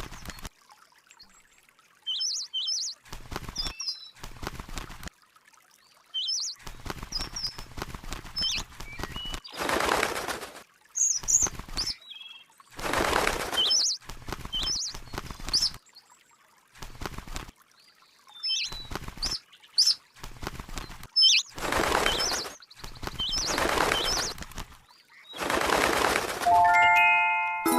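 A small bird chirping in short, sharp calls, between repeated noisy bursts of wing flapping, each about a second long.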